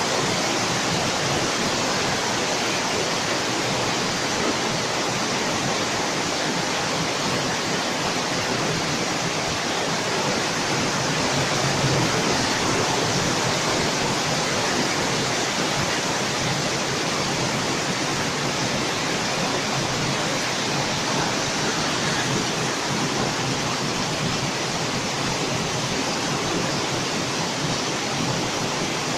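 Heavy rain pouring down steadily, a dense even hiss that does not let up.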